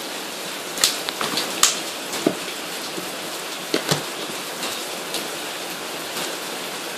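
Steady rain falling, with a few sharp clicks and knocks, about one to four seconds in, as hands handle the materials.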